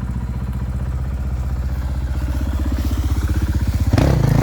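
Enduro motorcycle engine running at low revs with an even, pulsing beat, gradually picking up, then revved hard and loud near the end.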